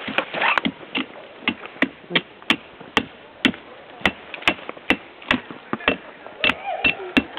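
Wood being chopped: a steady run of sharp strikes, about two a second.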